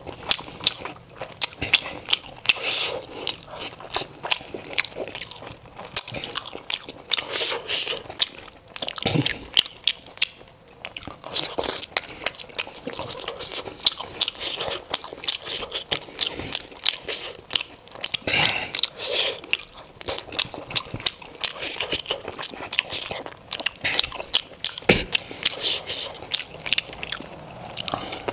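Close-miked eating sounds of a person chewing steamed momo dumplings: irregular wet chewing and biting noises with many short mouth clicks throughout.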